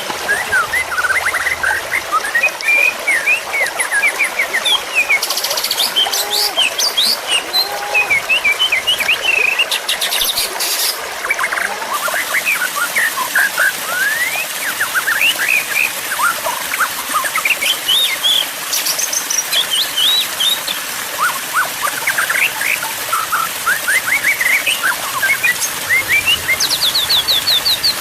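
Songbirds singing and chirping without pause in fast, varied phrases of short rising and falling notes, with a few quick high trills.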